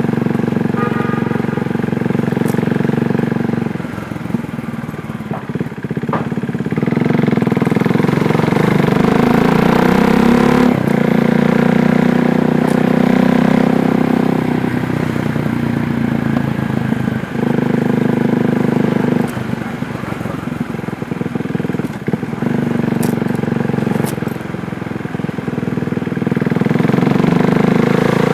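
KTM Duke 390's single-cylinder engine running while the motorcycle is ridden. The engine note drops in loudness about four seconds in and several more times in the second half, then picks back up.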